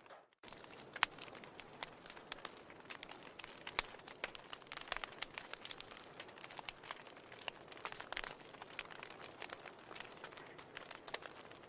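Fireplace fire crackling, with many irregular sharp pops and snaps over a soft steady hiss. The sound drops out briefly right at the start.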